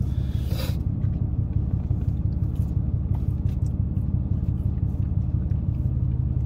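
Steady low rumble of a parked car's idling engine, heard inside the cabin, with a brief rustle about half a second in.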